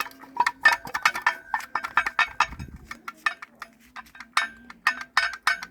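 Worn crankshaft damper pulley of an Opel Astra H 1.7 CDTI diesel worked by hand, its loose insides clinking and rattling metal on metal in quick, irregular knocks. The damper has failed: its inner washers have ground up and collapsed, leaving play.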